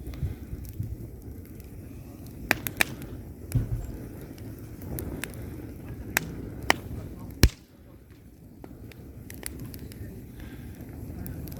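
Wood fire burning in a fireplace: a steady low rumble of the flames with scattered sharp crackles and pops of the logs, the loudest snap just past the middle.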